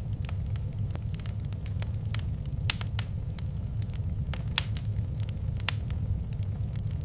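Wood fire crackling in a fireplace, with irregular sharp pops, three of them louder than the rest, over a steady low rumble.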